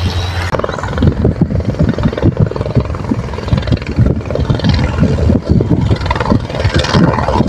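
Helicopter close by, its sound mixed with heavy, irregular wind buffeting on the microphone, which sets in about half a second in.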